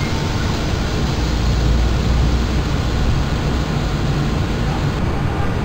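Steady rumble and hiss of a regional passenger train beside the platform, with no distinct clanks or squeals.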